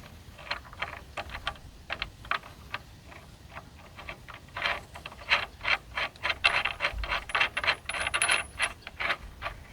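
Nut and washer being put on a bolt through a wooden 2x4 brace and tightened with a wrench: a run of small metal clicks, sparse at first and quicker and louder from about halfway through.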